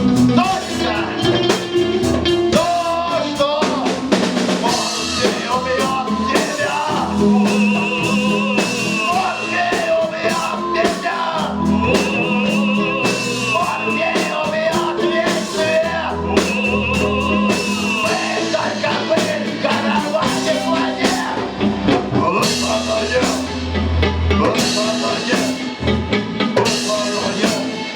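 A live rock band playing a song, with a drum kit, bass and singing.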